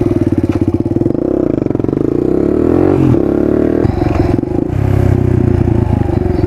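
Dual-sport motorcycle engine running while riding, a fast even pulsing exhaust note; its pitch sweeps up and down about two seconds in, dips briefly a little after three seconds, then settles back to steady running.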